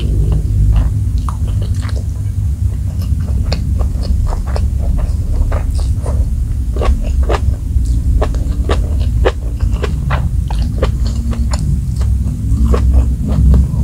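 Close-miked eating of nasi goreng and ayam geprek by hand: many short, wet chewing clicks and lip smacks, over a steady low rumble.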